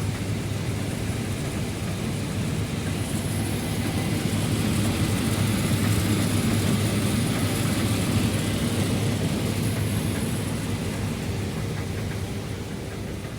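Case IH 8250 Axial-Flow combine running steadily while harvesting corn: a constant low machine hum with a hiss above it, growing a little louder toward the middle and fading near the end.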